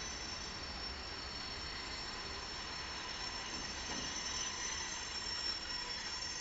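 Freight train of hopper wagons rolling slowly past, with a steady low rumble and several thin, high-pitched tones held throughout.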